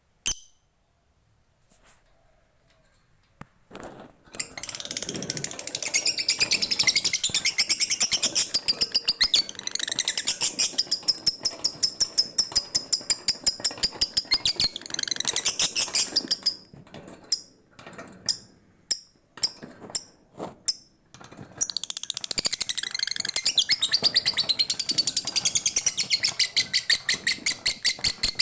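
Lovebird's long 'ngekek' chatter: a fast, unbroken run of shrill, high notes lasting about twelve seconds, then a few separate chirps, then the rapid chatter again. A single short chirp sounds before the first run, after a few seconds of near quiet.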